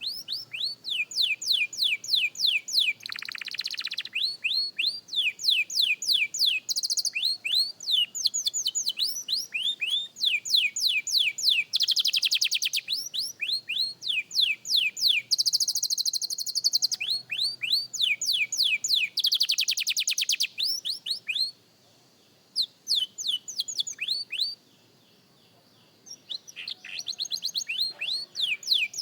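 Young canary singing practice song: long rolling runs of fast repeated down-sweeping notes, the speed of the notes changing from run to run. The song stops for a few seconds near the end, with one brief note in the gap, then starts again.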